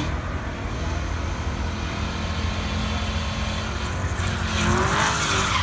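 Car engine running steadily, with a louder rushing noise that builds near the end.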